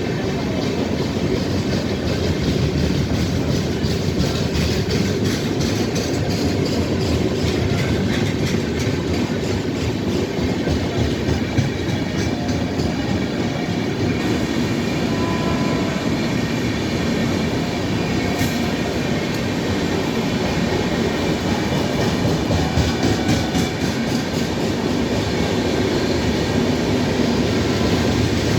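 Indian Railways express train running at speed, a steady heavy rumble with the rapid clickety-clack of wheels over rail joints.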